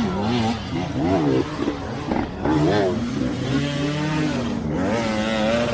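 Off-road vehicle's engine revving up and down under load, then held at steady high revs near the end.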